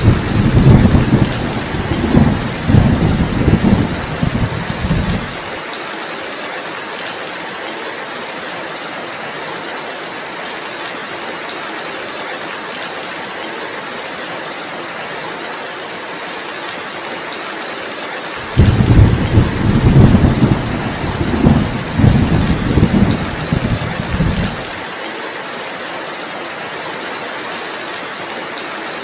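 Steady heavy rain with two rolls of thunder. The first rumble is already going at the start and dies away about five seconds in. The second comes about two-thirds of the way through and rolls for some six seconds.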